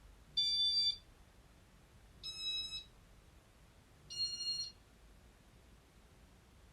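Three short electronic beeps, each about half a second long and slightly different in pitch, from a Casablanca ceiling fan's W-32 Inteli-Touch control, which beeps to confirm each command it receives.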